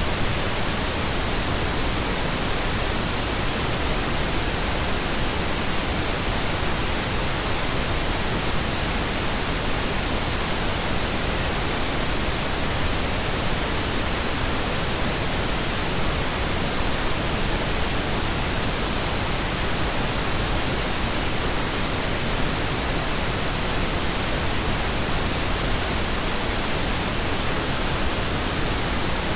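Pink noise: a steady, even hiss spread across the whole frequency range, with no changes or events.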